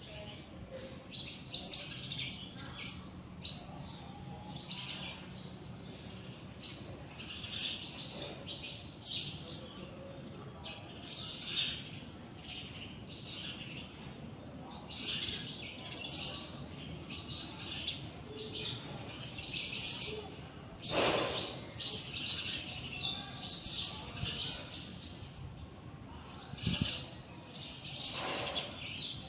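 Morning bird chorus: several small birds chirping in quick, overlapping short calls throughout. There is one brief louder sound about two-thirds of the way through.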